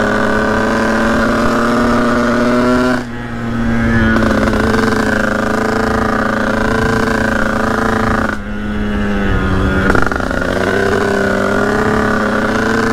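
Sherco 50cc two-stroke dirt bike engine under way on the road, heard from on board. Its revs climb, then drop off sharply twice, about three seconds in and again after about eight seconds, before pulling steadily again.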